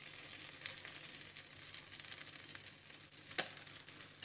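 Halved boiled eggs and onion masala sizzling in oil in a small nonstick frying pan. A metal spoon turns the eggs, with a few sharp clicks against the pan, the loudest about three and a half seconds in.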